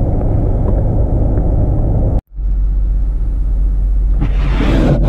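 Car engine idling with a steady low rumble, the defroster running. It drops out abruptly about two seconds in and resumes, and a short hiss rises and fades near the end.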